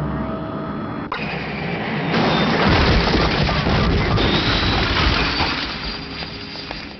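Car engine running hard at speed: a loud rushing sound that sets in abruptly about a second in, is strongest from about two seconds in, and fades toward the end.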